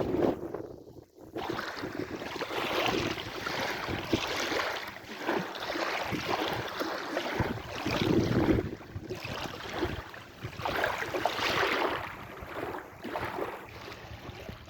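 Sea waves washing in and out, the rush of water swelling and fading in surges every few seconds.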